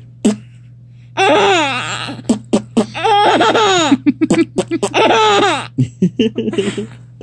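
Baby laughing in three long, high-pitched bursts, with short sharp sounds in between and a steady low hum underneath.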